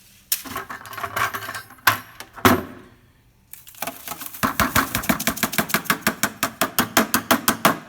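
Descaling solution glugging out of its container as it is poured, a fast, even run of about six glugs a second through the second half, after some handling and splashing noise in the first few seconds.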